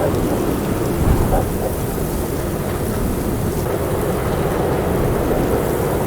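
Strong wind blowing and buffeting the microphone, a steady low rumbling rush with a brief louder gust about a second in.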